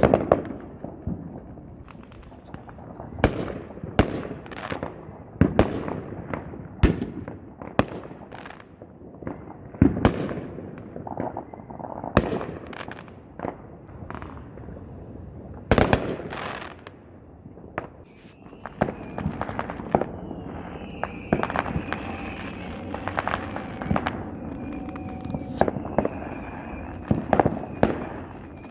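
Fireworks going off: a run of loud, sharp bangs and booms at irregular intervals, about one every second or two, each trailing off. In the second half a faint, wavering high tone runs beneath the bangs.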